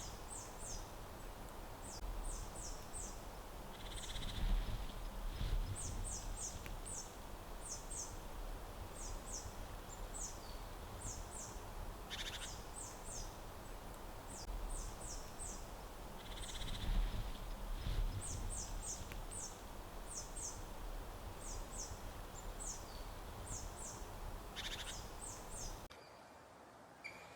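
Forest ambience: a steady background hiss with quick high chirps in clusters of three or four, repeating every second or two throughout. There are two low rumbling swells, one about four seconds in and another around seventeen seconds, and the sound drops abruptly quieter near the end.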